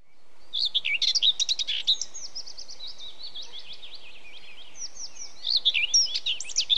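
Several small birds chirping and singing in quick, overlapping high calls, fading in at the start. They are busiest in the first two seconds and again from about five and a half seconds on, with sparser chirps in between.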